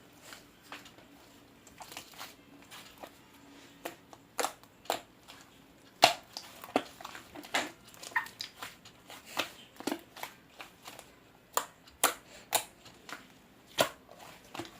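Hands squeezing and poking slime, making irregular sticky pops and clicks, denser and louder in the second half.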